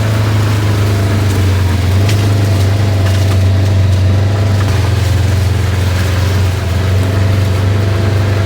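Motor vehicle engine running steadily and loudly, close by.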